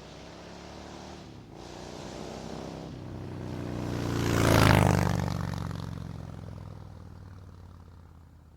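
An oncoming motorcycle passing by: its engine grows louder, is loudest a little past halfway, then fades away.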